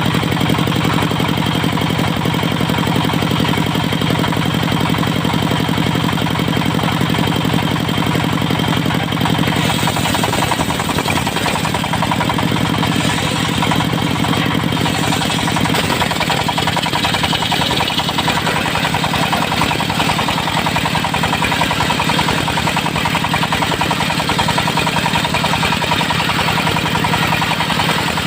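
Diesel engine of a portable circular-saw sawmill running steadily with a clattering note. About ten seconds in its sound shifts: the low hum eases and a higher hiss comes in.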